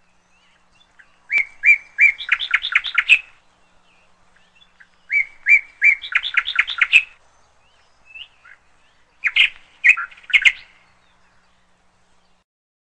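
A songbird singing three short phrases a few seconds apart. The first two each start with a few even notes that run into a quick series of rapid notes, and the third is a shorter cluster of notes.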